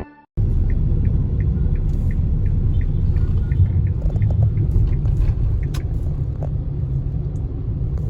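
Steady low road rumble inside a moving car, with a run of light ticks about three a second during the first few seconds.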